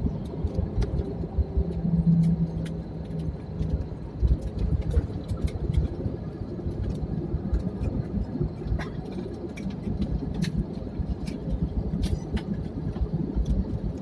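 Airliner cabin noise on the ground just after landing: steady low engine and rolling rumble, with light rattles and clicks from the cabin fittings throughout.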